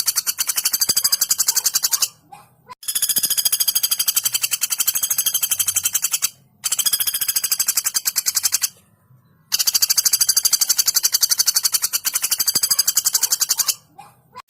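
Female velvet-fronted nuthatch giving long, fast, even rattling trills of high notes. There are four runs of a few seconds each, with short breaks between them.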